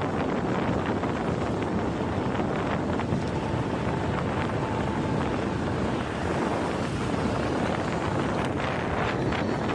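Wind rushing over the microphone of smart glasses worn by a rider on a moving e-bike, a steady rumble without a break.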